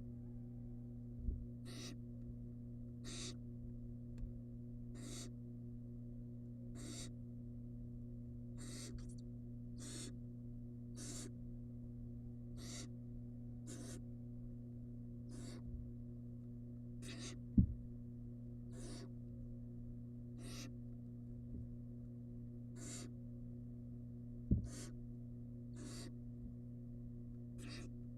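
Barn owl nestling's begging calls: short hissing calls repeated about every second and a half, over a steady low electrical hum. Two sharp knocks stand out, one about two-thirds of the way through and one near the end.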